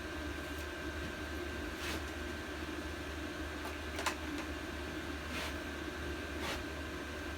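A few scattered sharp clicks of hand tools against metal, four in all, the loudest about four seconds in, over a steady hum.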